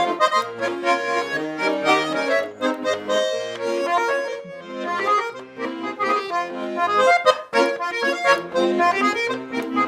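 Button accordion playing an instrumental folk-song introduction: a melody over sustained chords with stepping bass notes.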